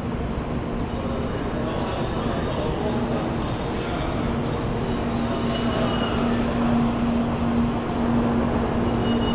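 N700A Shinkansen train moving slowly alongside the platform: a steady rumbling hum with a low drone that grows stronger from about three seconds in, the whole sound slowly getting louder.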